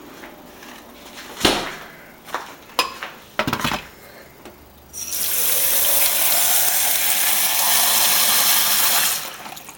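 A few separate knocks and clatters, then water runs from a kitchen tap in a steady, loud rush for about four seconds before being shut off.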